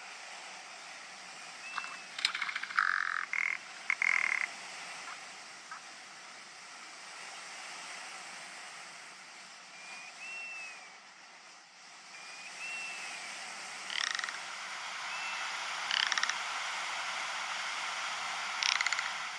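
Ptarmigan giving short, croaking rattle calls several times over a steady hiss, with a few faint thin whistle notes.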